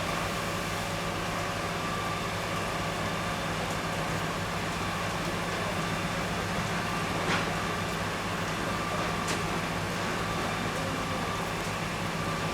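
Steady machine drone with a hiss over it, holding level throughout, broken by two brief sharp cracks, the first about seven seconds in and the second about two seconds later.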